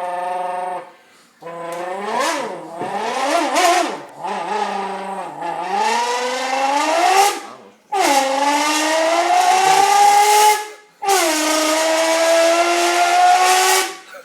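A person imitating a V10 engine's exhaust note with a king-size Bud Light can: a buzzy, pitched drone that wavers up and down like revving, then comes in several long runs that each rise in pitch and break off briefly before starting again.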